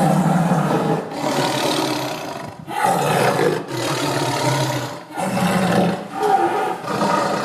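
Big cat roaring over and over, a string of drawn-out calls about a second each with short breaks between them.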